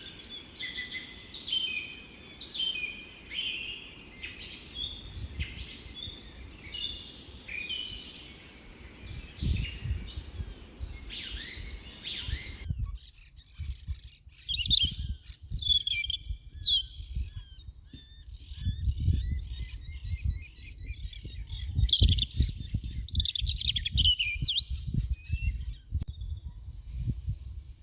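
Small songbirds chirping and singing in quick repeated phrases, with irregular low rumbling underneath. The background hiss drops away suddenly about halfway through.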